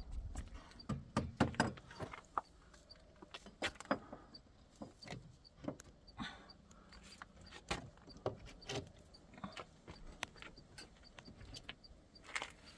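Irregular knocks, taps and clatters of hand work on a wooden door, with a cluster of louder knocks about a second in and another near the end.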